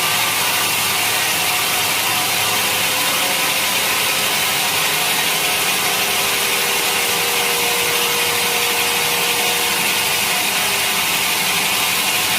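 Sawmill saw cutting steadily through a large teak log: a loud, even hiss of blade through wood with a faint steady whine underneath.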